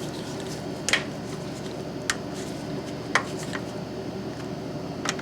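Tools and metal fittings clinking against the oil burner's parts during reassembly: four or five sharp, separate clicks a second or so apart, over a steady low hum.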